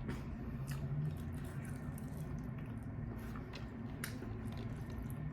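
Close-miked wet chewing and lip smacks of someone eating chicken wings, with scattered sharp clicks over a steady low hum.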